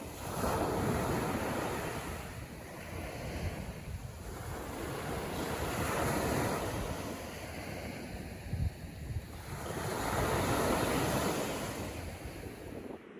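Sea waves breaking and washing up the beach in slow surges, rising and falling about every five seconds, with wind buffeting the microphone.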